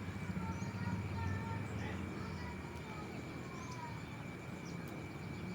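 Outdoor riverside ambience: birds giving short chirping calls throughout, over a steady high insect-like drone and a low rumble of wind or flowing water.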